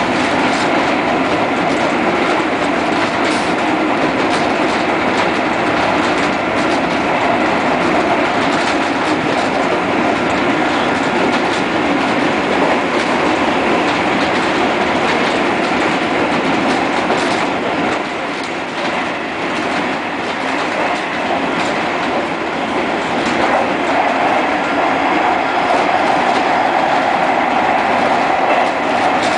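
JR East Series 201 electric train running at speed, heard from just behind the driver's cab. It makes a steady rumble of wheels on rail, with irregular clicks from rail joints.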